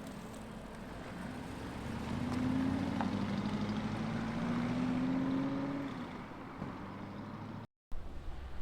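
A car's engine and exhaust as it rolls past at low speed. It grows louder over a few seconds, the pitch rising gently, then fades away. The sound breaks off briefly near the end.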